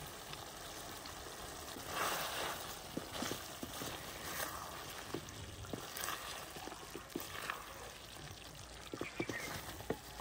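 Chicken frying in oil in a karahi at the bhunai stage, its liquid cooked off, with a steady sizzle that swells about two seconds in. Scattered sharp clicks of a spatula scraping and tapping against the pan as it is stirred.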